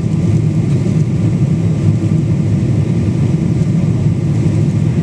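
Steady low drone of a Boeing 777-200's engines and airflow heard inside the passenger cabin in flight.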